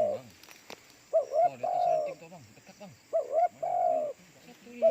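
Spotted dove (tekukur) cooing: a phrase of two short notes and one longer drawn-out coo, repeated about every two seconds.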